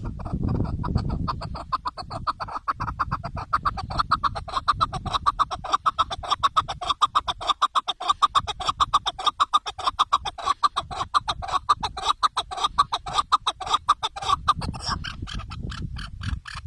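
Chukar partridge calling: a rapid, even run of clipped notes, about six a second, kept up without a break, over a low rumble.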